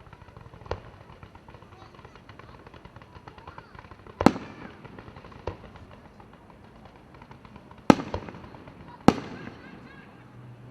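Fireworks display: a small pop about a second in, then three loud booms about four, eight and nine seconds in, with a couple of lighter pops between, each bang trailing off briefly. Crowd voices murmur underneath.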